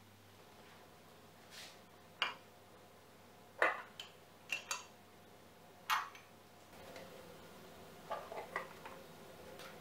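Scattered light clicks and taps of small hard objects being handled and set down, about a dozen in all, spaced irregularly, with a faint steady background that rises slightly about two-thirds of the way in.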